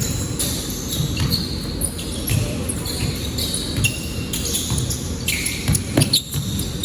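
Basketball game in a gym: a ball bouncing repeatedly on the court, with short high squeaks, likely from sneakers, and voices in the background.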